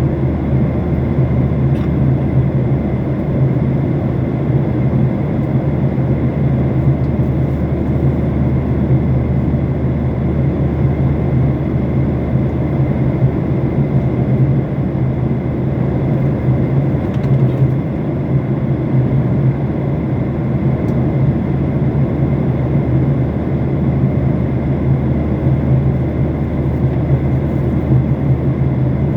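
Steady engine and airflow noise of an airliner in flight, heard from inside the passenger cabin, strongest in a low hum.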